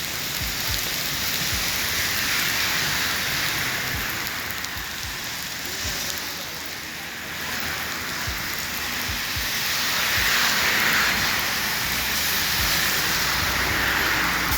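Heavy rain pouring down steadily, swelling louder about ten seconds in, with scattered dull low thumps.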